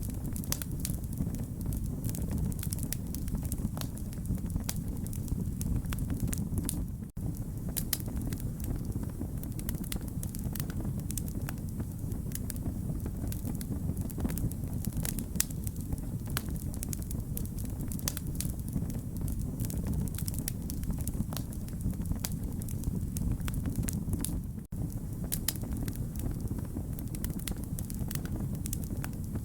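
Wood fire crackling: a steady low rumble of flames with many sharp pops and snaps. The sound drops out for an instant twice.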